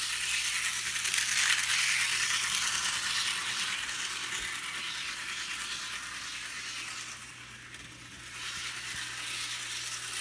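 HO scale Thomas the Tank Engine model locomotive running at full speed on its track: a steady rattling hiss from its small electric motor and wheels on the rails. The sound drops for about a second after the middle, then comes back.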